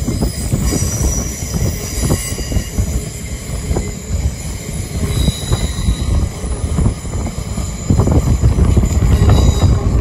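LNER Azuma (Hitachi Class 800/801) passenger train running along the track: a steady rumble of wheels on rail with irregular knocks and a faint high whine, getting louder near the end.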